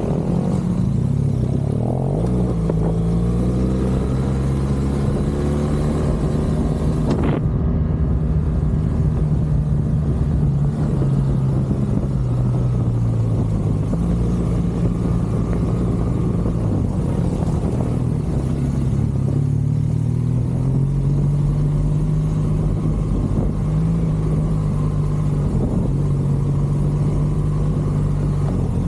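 BMW R1200GS Adventure's flat-twin boxer engine running under way, its pitch rising and falling in steps as the throttle opens and closes. A brief sharp knock about seven and a half seconds in.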